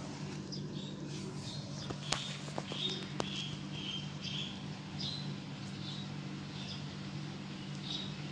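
Short high chirps repeating every second or so, from a small bird, over a steady low hum, with a few sharp clicks about two to three seconds in.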